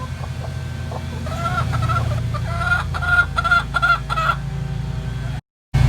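Chickens clucking: a run of short, repeated clucks over a steady low hum. The sound cuts out abruptly for a moment near the end.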